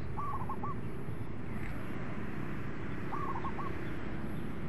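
A bird calls twice, each time a short phrase of three or four clear notes, over steady outdoor background noise.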